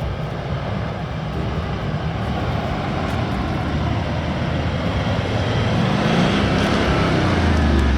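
Four-wheel-drive vehicle driving: a steady run of engine and road noise that slowly grows louder, with the engine note rising about six seconds in.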